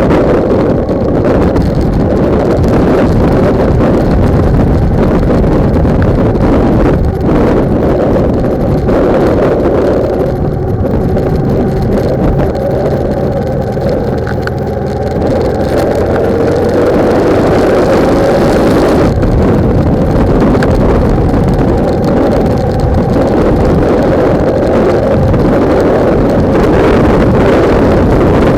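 Heavy wind buffeting on a bike-mounted camera's microphone at riding speed, with the bike's engine running underneath.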